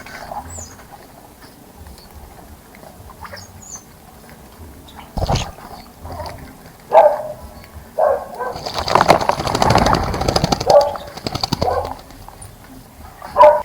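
Small bird bathing in a bird bath: short bursts of wing-fluttering and splashing water, then a long bout of rapid splashing from about eight and a half seconds in. A couple of faint high chirps near the start.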